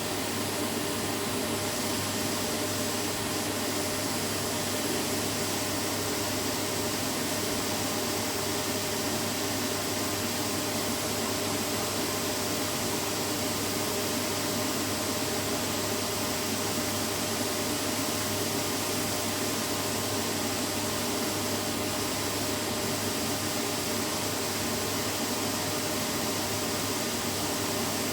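Vacuum cleaner running steadily: an even rush of air with a steady motor hum, unchanging in pitch and level.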